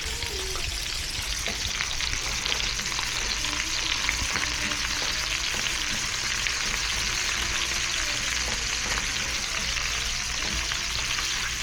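Meat and shrimp stir-frying in a small pan, a steady sizzle with faint clicks and scrapes of stirring. The cook finds the burner's flame weak and the pan slow to get hot.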